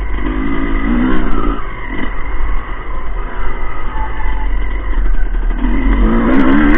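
Motocross motorcycle engines revving, with the pitch climbing twice: once shortly after the start and again near the end, over a constant low rumble.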